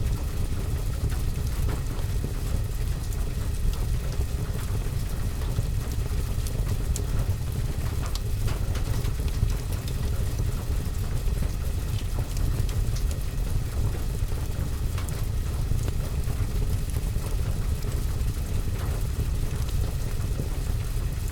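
Steady rain on a window and roof with a low rumble, mixed with a wood fire in a fireplace crackling in scattered small pops.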